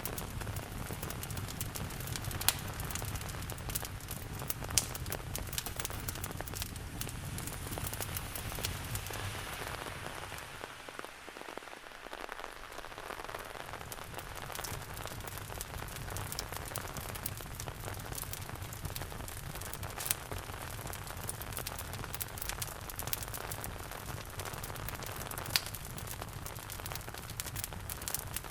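Steady rain mixed with a wood fire crackling in a fireplace, with a few sharp pops from the fire. The low rumble in the mix drops away briefly about eleven seconds in, then returns.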